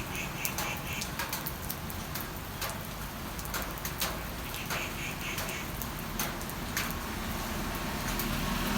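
Rain falling steadily, with many sharp taps of individual drops hitting a surface. Short runs of quick, repeated high chirps come near the start and again about halfway through.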